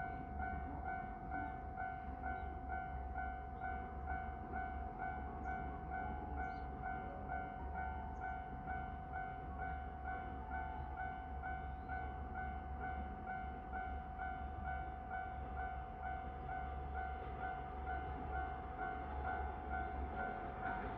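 Railway level-crossing warning bell ringing steadily at about two strokes a second, signalling an approaching train, over a low rumble.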